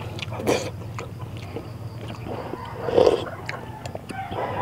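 A person chewing a mouthful of rice and greens, with light clicks of a metal spoon on the plate and against the glass soup bowl.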